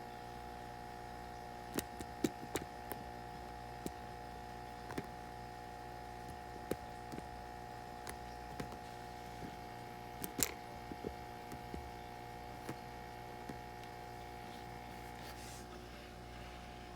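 Aquarium air pump running with a steady hum, with scattered sharp little clicks throughout.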